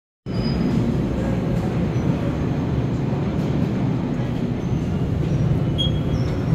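Steady low rumble of a train in an underground RER station, with a few faint high-pitched squeals over it.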